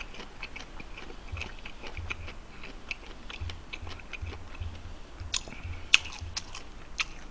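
A man chewing food with his mouth closed: soft wet mouth clicks and low jaw thumps at about two a second, with a few sharper clicks in the second half.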